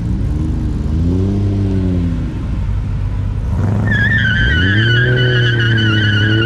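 A car engine revving up and falling back, then revving again while the tires break loose. From about four seconds in, a long, wavering tire squeal runs over the held revs: the wheels are spinning under power.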